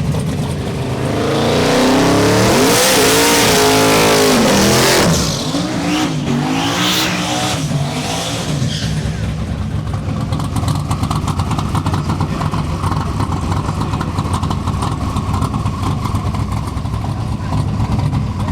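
A drag-racing engine revving hard on a pass, loud for a few seconds with its pitch climbing and dropping, then fading away about halfway in. A steady lower engine rumble follows.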